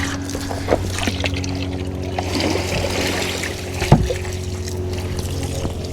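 Running water splashing and trickling as a chicken waterer is rinsed out, over a steady low hum. A single knock comes about four seconds in.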